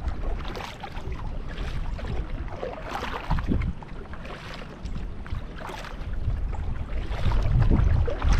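Kayak paddle strokes dipping and splashing in the water, repeated every second or so, with wind rumbling on the microphone and growing louder near the end.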